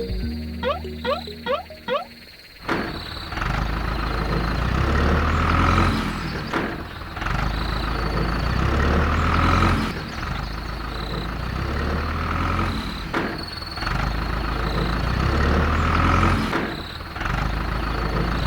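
Four quick rising whistle-like glides, then a vehicle engine running with a low rumble that swells and eases every three to four seconds.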